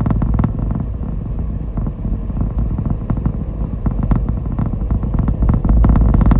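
A car driving along a road: a steady low rumble of engine and tyres, with small rattles and knocks from the road surface, a little louder near the end.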